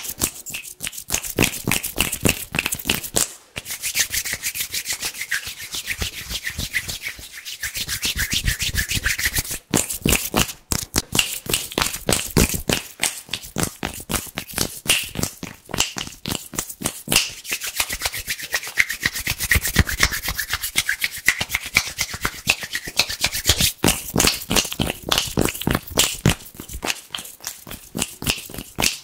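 Hands rubbing and brushing together fast, a dense run of quick, crispy strokes.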